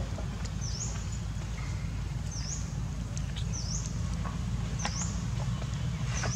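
A bird repeating a short, high call that dips and then rises in pitch, five times, about a second or a second and a half apart, over a low steady rumble.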